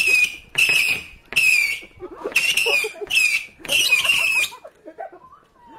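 Firework giving off a rapid series of about seven short, shrieking whistles, each with a hiss, spaced under a second apart.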